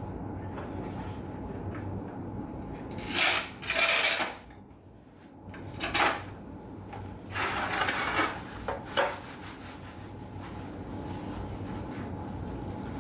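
Scraping and rubbing noises in several short bursts over a steady low hum, typical of hand work on wood or building materials.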